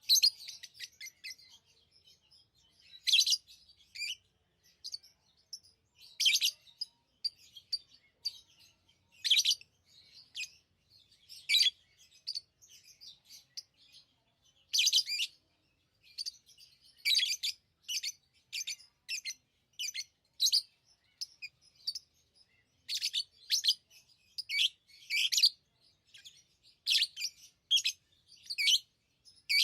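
Pet lovebirds chirping: short, sharp, high chirps in irregular clusters, coming in quicker runs in the second half.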